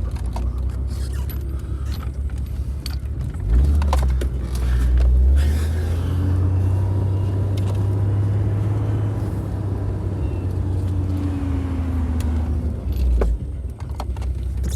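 A vehicle engine running steadily, louder for a moment around four to five seconds in, dipping briefly near the end.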